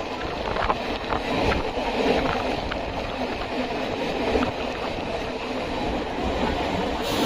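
Chennai MRTS electric suburban train running along the track: a steady rumble and rattle with scattered sharp clicks.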